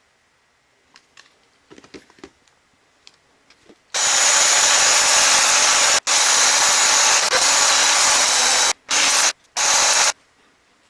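A loud, steady hiss of a pressurised jet, as used to blow or spray clean disassembled tool parts, in four bursts that start and stop sharply, the first two long and the last two short. A few light handling clicks come before it.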